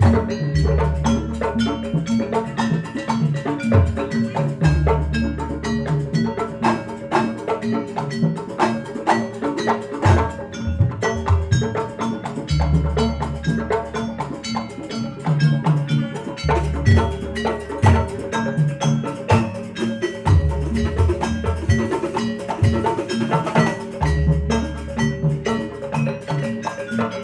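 Javanese gamelan music accompanying a barongan dance: fast struck metallophone and drum notes over deep, lingering strokes that return every few seconds.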